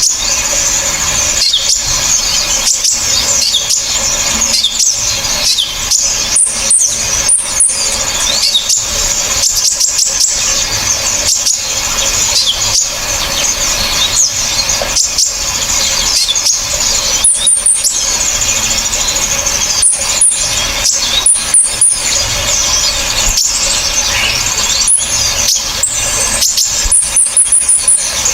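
Dense, unbroken high-pitched bird calls from several small songbirds layered together in a bird-training recording: rapid sharp chirps and trills, with clusters of very high, short piercing notes recurring throughout.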